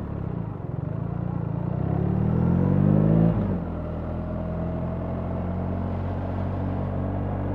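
BMW R 1300 GS boxer-twin engine under way: its note climbs steadily as the bike accelerates, drops sharply about three seconds in, then runs steady at a lower pitch.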